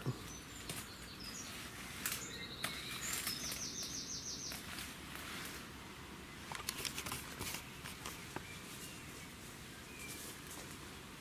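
Faint outdoor background with birds calling: a few short high chirps, then a quick trill of repeated notes about three seconds in. Scattered light clicks and rustles run through it.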